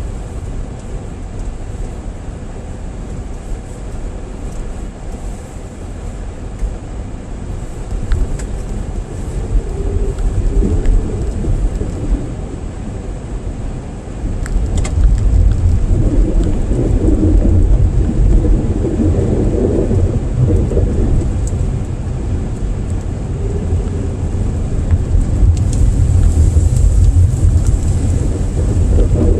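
Low, steady rumble of road and engine noise inside a moving car, tyres running on a cleared post-snowfall road; it grows louder about halfway through as the car picks up speed or the road gets rougher.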